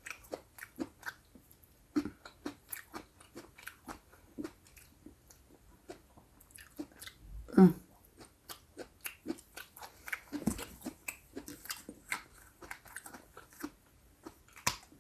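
Close-up chewing and biting while eating sushi and pickled ginger: many small wet, crunchy mouth clicks at an uneven pace. About halfway through comes one brief, louder, low hum-like sound.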